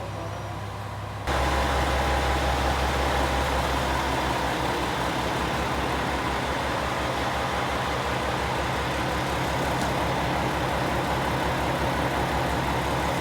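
Diesel railcar engine running with a steady low drone and an even pulse. It gets suddenly louder about a second in and then holds steady.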